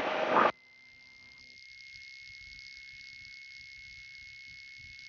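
A burst of radio static cuts off abruptly about half a second in, leaving a faint hiss and a thin steady high whine on the aircraft's headset intercom audio.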